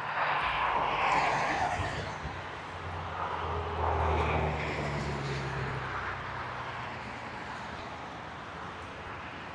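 Distant motorway traffic: a steady hiss of tyre noise with a low engine drone that swells and then fades away about six seconds in.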